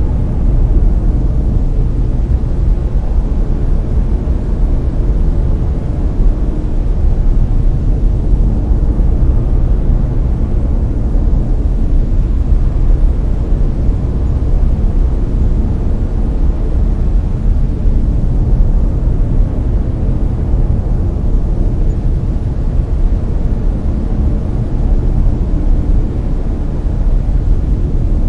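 Steady brown noise: a deep, even rushing hiss weighted heavily toward the bass and falling away in the highs, with no changes or events.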